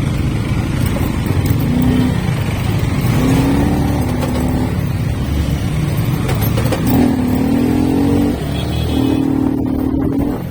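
Motorcycle engine running on the road with wind noise on the microphone, its note rising and falling in several held stretches.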